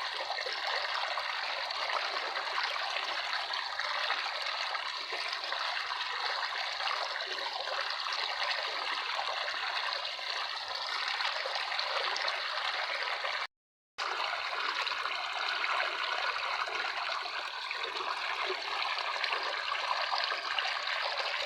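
Running water trickling and flowing steadily, like a small stream. It cuts out completely for a fraction of a second about two-thirds of the way through, then resumes unchanged.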